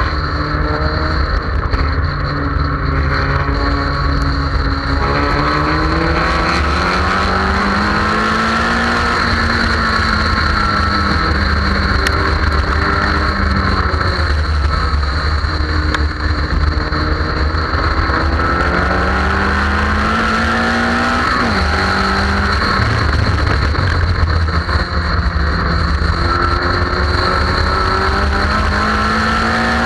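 Car engine at track speed, its pitch climbing for several seconds under acceleration and then dropping back at shifts or when lifting for corners, over and over. A steady low rumble of wind buffets the car-mounted microphone underneath.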